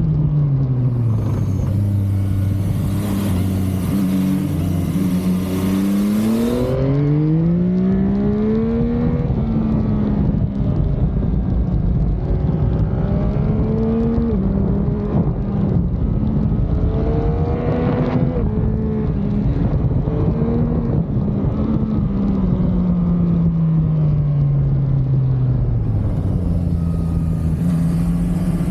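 Motorcycle engine under way, revs climbing in several rising sweeps with quick upshifts between them, then wavering, and falling away for several seconds near the end before picking up again. Wind noise rushes over the microphone while it accelerates.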